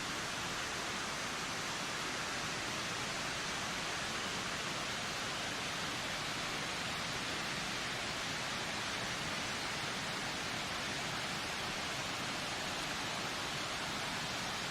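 Wind blowing as a steady, even hiss, with no gusts or changes in strength.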